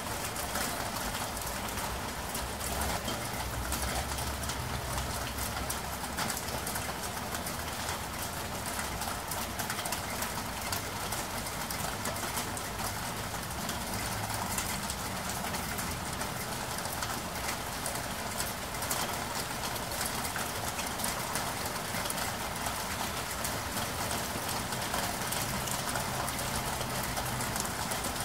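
Steady rain, a dense patter of many small drops, with a low rumble that comes and goes, strongest a few seconds in and again near the end.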